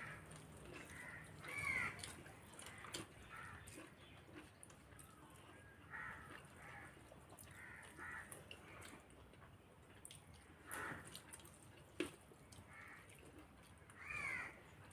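Faint crows cawing on and off, with short harsh calls every second or two, the clearest near the start and near the end. A single sharp click comes about twelve seconds in.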